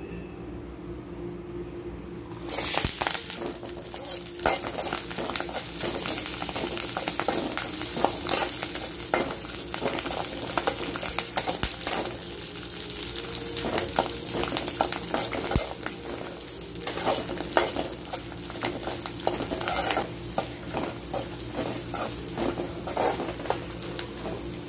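Dried red chillies, garlic cloves and curry leaves dropped into hot oil in an aluminium kadai, starting to sizzle suddenly about two and a half seconds in and frying steadily after that as they roast. A slotted metal spatula scrapes and clicks against the pan as they are stirred.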